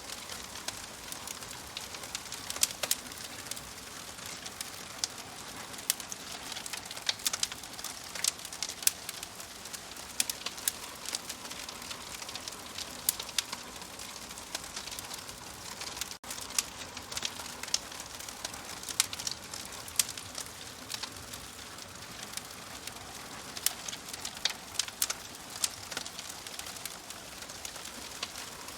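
Wood fire crackling in a fireplace: a steady soft hiss with frequent sharp pops and snaps scattered irregularly throughout, broken by a split-second dropout just past the middle.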